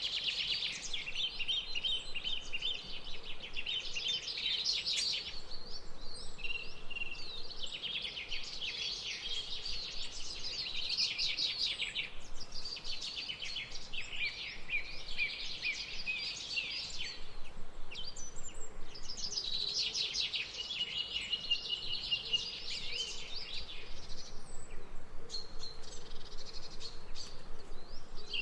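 Birds chirping and twittering in dense, rapid phrases several seconds long, with short pauses between them, over a faint steady background hiss.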